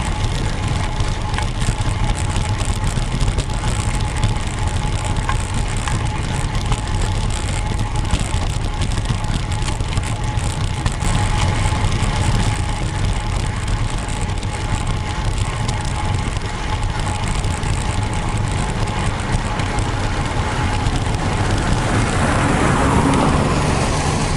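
Steady wind rumble and road noise while riding a road bike, with a thin steady whine underneath. Near the end a vehicle passes, its sound dropping in pitch as it goes by.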